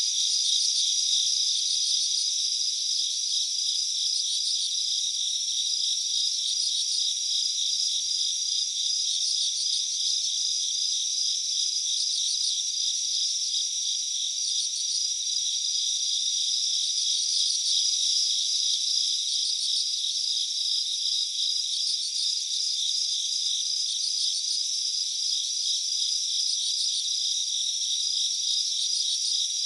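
Chorus of insects such as crickets, trilling steadily and densely, with a higher pulsed call repeating every second or two.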